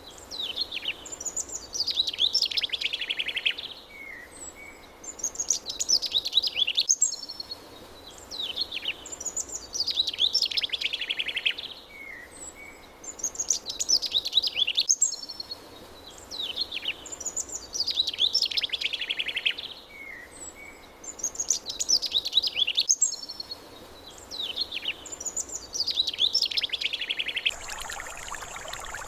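A songbird singing the same phrase over and over, about every four seconds: a high trill that falls in pitch, followed by a few short, lower notes, over a faint steady background hiss. Near the end the song stops and a steady hiss with a thin high whine takes over.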